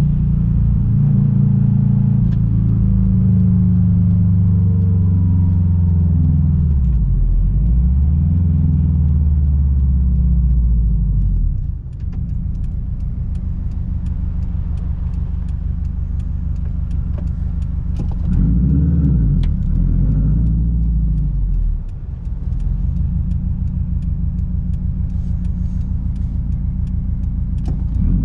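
Straight-piped 2006 Subaru WRX STI turbocharged flat-four exhaust while driving: the engine note sweeps down and back up over the first ten seconds or so, eases off briefly twice, and in between runs with a steady, pulsing low-rev note.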